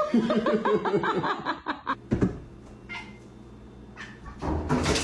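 A cat making a quick run of short pitched calls, several a second, for about two seconds, then a quieter stretch and a loud noisy burst near the end.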